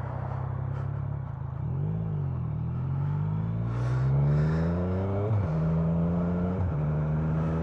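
Motorcycle engine running steadily, with a short blip of the throttle about two seconds in. It then revs up with a rising pitch for about three seconds, drops suddenly, and runs steady at a higher pitch.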